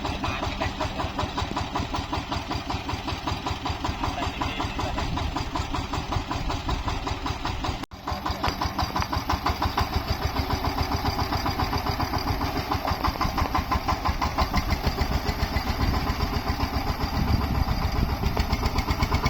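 Tractor engine running steadily with a regular pulsing beat. It breaks off for an instant about eight seconds in, then carries on slightly louder.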